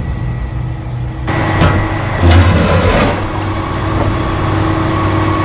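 Grapple truck's diesel engine running steadily while the Rotobec loader works. The engine note picks up just over a second in, and a few knocks and thuds follow, the loudest about two and a half seconds in.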